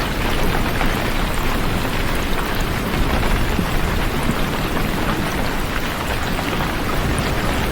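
Steady, heavy rainfall: a continuous dense patter and hiss of rain, with a low rumble underneath.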